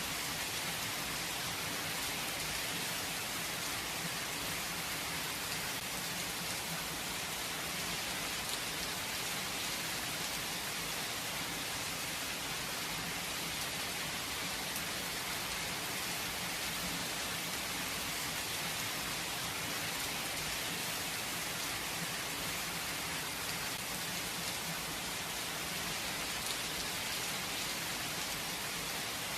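Steady rain falling and pattering on a surface, even and unbroken, with no thunder.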